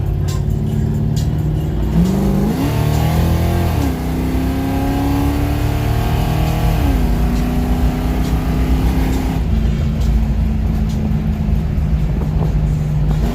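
Loud 383 stroker small-block V8 of a 1978 Chevrolet Malibu under acceleration: steady at first, it revs up about two seconds in, drops in pitch near four seconds as it shifts, climbs again and drops once more near seven seconds, then holds a steady cruise.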